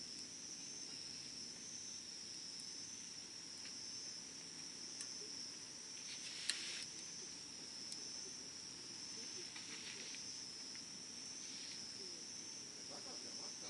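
Wood campfire burning with occasional small crackles and one sharp pop about halfway through, over a steady high-pitched insect trill.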